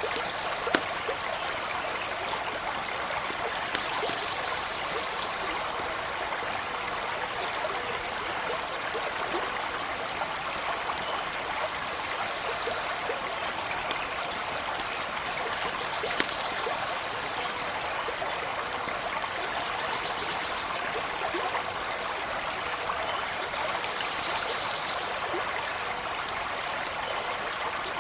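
A stream running and trickling steadily, with the occasional sharp pop and crackle of a small campfire.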